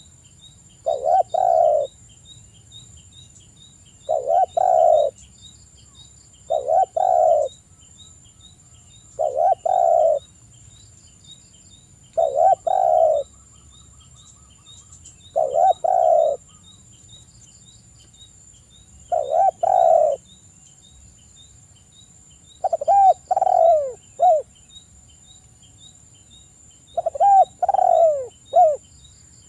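A spotted dove (tekukur) cooing: nine phrases of a second or so each, about one every three seconds. The last two phrases break into several separate, falling notes. This is a dove-lure recording meant to set other doves calling.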